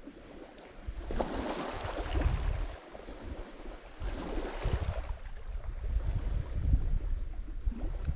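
Lake Michigan waves breaking and washing up on the shore, one surge about a second in and another about four seconds in, each a rushing hiss. Wind buffets the microphone with low rumbling gusts throughout.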